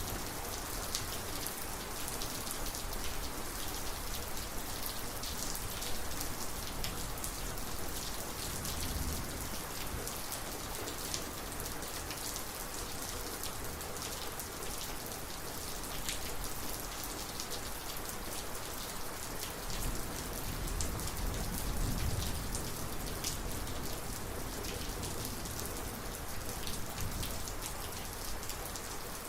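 Heavy rain pouring steadily onto surfaces, with many close drop splats. Low thunder rumbles swell about nine seconds in and again around twenty seconds in.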